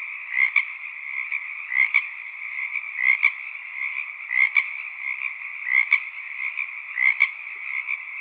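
Frog chorus: a steady mass of croaking, with one louder call repeating about every 1.3 seconds.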